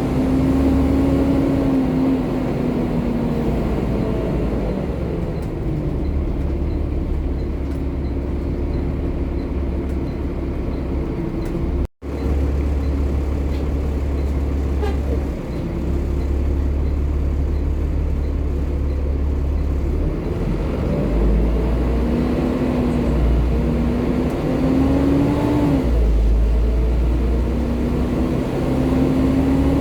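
Volvo B7TL double-decker bus's diesel engine running under way over a steady low rumble. Its note falls over the first few seconds and rises again several times later as the bus pulls away and accelerates. The sound cuts out for an instant about twelve seconds in.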